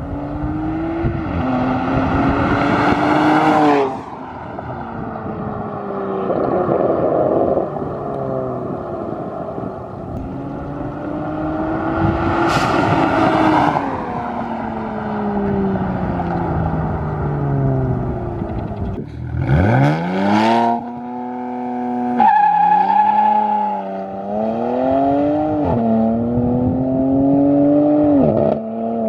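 BMW N54 twin-turbo inline-six running through a catless 2.5-inch straight-back exhaust with two resonators, revved repeatedly. Its pitch climbs and falls away in slow sweeps. The sound breaks off briefly about two-thirds of the way through, then picks up again with a steep rise.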